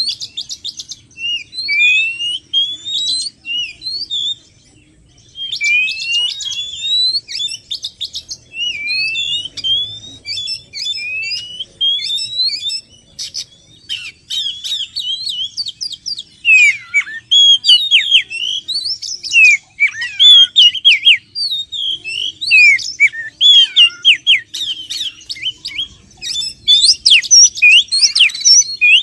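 Oriental magpie-robin song played as a lure recording: a fast run of loud whistled notes, at first repeated rising glides, then varied downward sweeps mixed with sharp clicking notes, with a short break about five seconds in.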